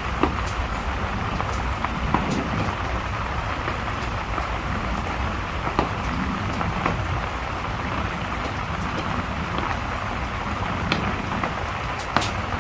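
Steady rain with a low rumble underneath and a crackling fire: scattered sharp pops and snaps, one every second or so, over the even hiss.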